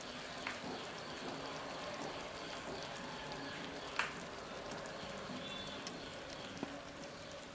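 Ivy gourd fry faintly sizzling in a hot cast-iron kadai just taken off the gas flame. A few light clicks sound in the pan, the sharpest about four seconds in.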